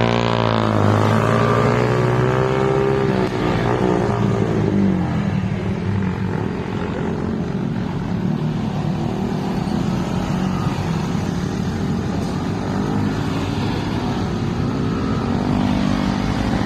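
Motorcycle engine running steadily while riding, with a shift in engine pitch in the first second.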